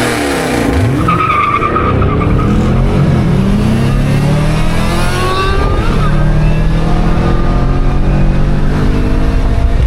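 Car engines revving and accelerating, several engine notes rising and falling in pitch at once, with a short high squeal about a second in. From about six seconds in they settle into a steadier deep drone.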